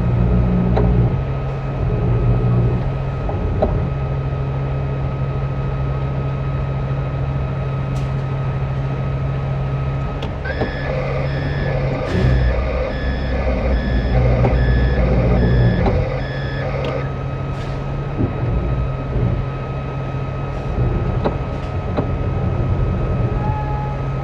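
Heavy truck engine running steadily, with its reversing alarm beeping for about six seconds in the middle as the vehicle backs up.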